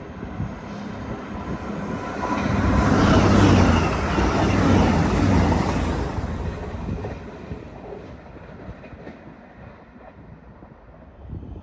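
A train passing on the main line. Its sound builds, is loudest for a few seconds near the middle, then fades away.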